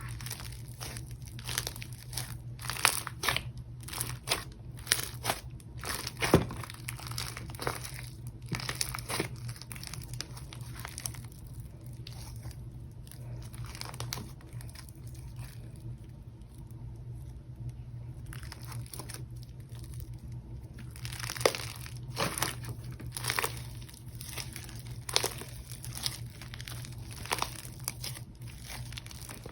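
Hands squishing, stretching and poking slime, making crackly, popping clicks in irregular bunches, with a quieter stretch in the middle.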